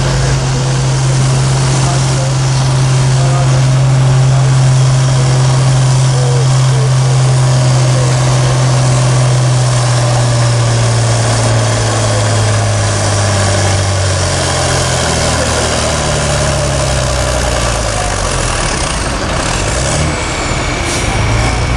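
Pulling tractor's engine running loud and steady at high revs, then slowly dropping in pitch as it winds down about halfway through.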